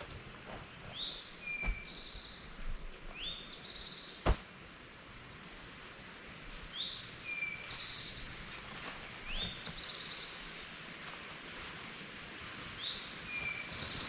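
A songbird singing the same short phrase three times, about six seconds apart: a quick rising note and a run of high notes. Steady outdoor background noise throughout, with a sharp click about four seconds in.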